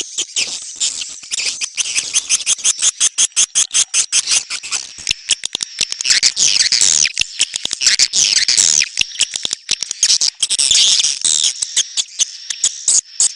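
Swiftlet calls, a 'neutral sound' lure track of the kind played to draw swiftlets into bird houses: a fast, unbroken train of dry clicks with shrill high twittering, densest in the middle and again near the end.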